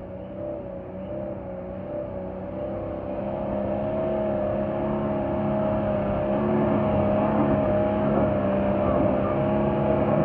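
A 4WD's engine revving hard and held at high revs under load, its pitch nearly steady with slight wavering, growing louder over the first few seconds.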